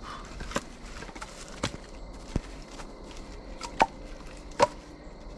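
Irregular sharp knocks and cracks of wood, about five in all, as pieces of a wooden log wall are worked and pulled apart.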